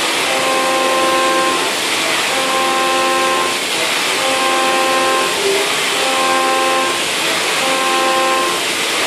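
CNC mill trochoidal-milling 6082 aluminium with a 3-flute end mill spinning at 8,000 rpm: a steady high-pitched cutting whine over a hiss. The whine comes in for about a second and a half, then drops briefly, repeating about every two seconds as the cutter sweeps its looping path into and out of the cut.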